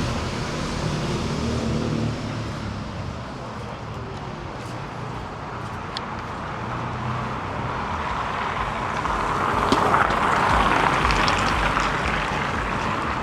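Street traffic noise of passing cars, swelling louder about two-thirds of the way through.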